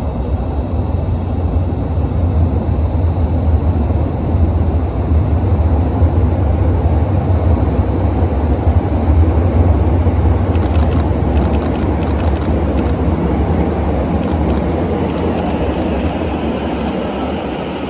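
E131 series electric train running into the station: a loud, steady rumble that swells through the middle and eases off near the end as it slows, with a faint higher tone coming in during the last few seconds.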